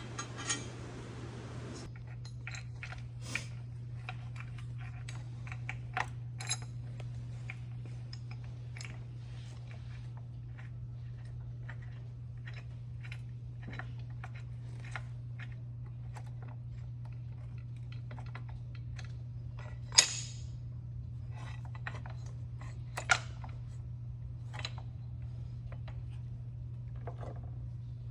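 Hand tools and metal parts clicking and clinking during work on an engine, with scattered light clicks and two sharper metallic knocks, one about two-thirds of the way in and one a few seconds later. A steady low hum lies underneath.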